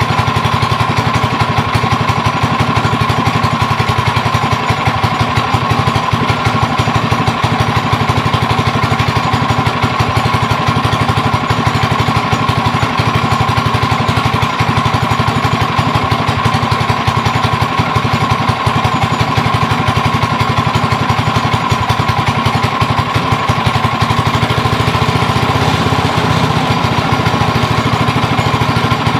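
A go-kart's small single-cylinder Ghost engine running steadily.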